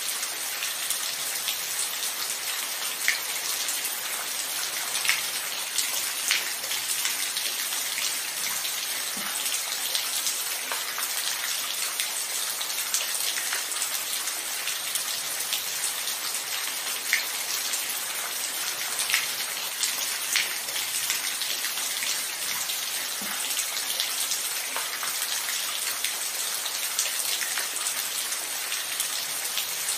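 Steady rain without thunder: an even hiss of falling rain with scattered louder single drops ticking every second or two.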